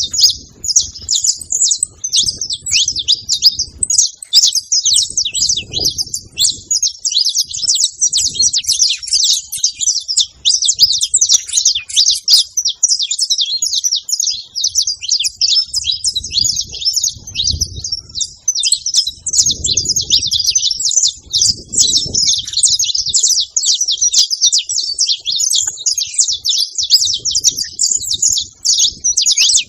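Many saffron finches calling together: a dense, continuous chatter of quick, overlapping high chirps.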